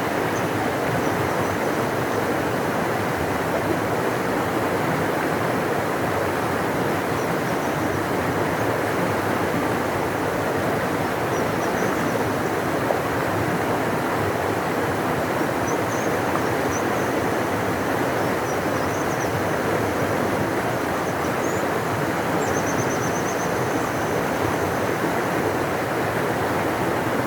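A large river rushing steadily, an unbroken rush of water with no change in level. Faint, high, wavering chirps come and go over it, mostly in the second half.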